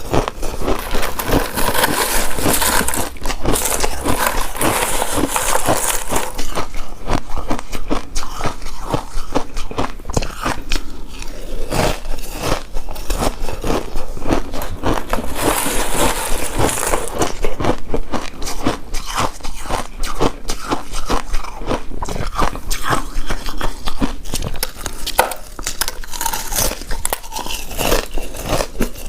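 Close-miked biting and chewing of a chewy pink coconut rice cake coated in shredded coconut: a dense run of small, wet mouth clicks and smacks.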